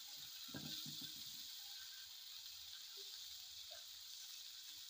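Diced chicken frying in oil in a pan over a low flame: a faint, steady sizzle, with a few soft knocks from a silicone spatula stirring the pieces about a second in.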